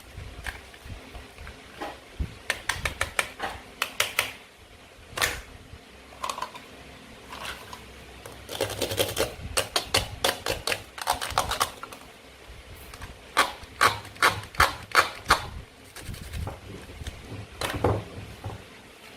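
A toy knife cutting through toy fruit and vegetables, making quick runs of sharp clicks and taps, in several bursts with short pauses between them.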